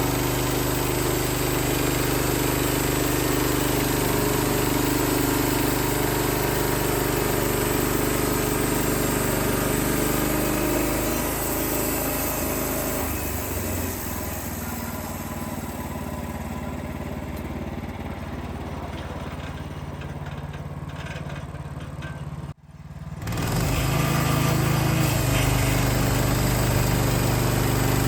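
Wood-Mizer LX55 portable band sawmill's 14 hp engine running steadily. Partway through it drops to a quieter, lighter sound. About three-quarters of the way in it breaks off abruptly for a moment, then comes back loud.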